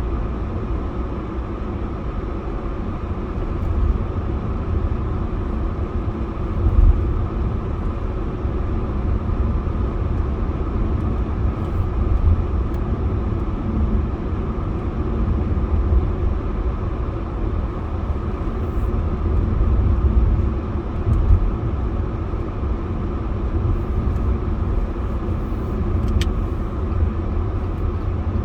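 Car driving at a steady speed: continuous low rumble of road and engine noise.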